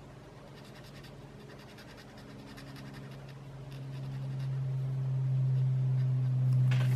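Pencil or marker strokes scratching on a small paper tile while coloring, as a series of short faint strokes. Under them a steady low hum swells louder through the second half.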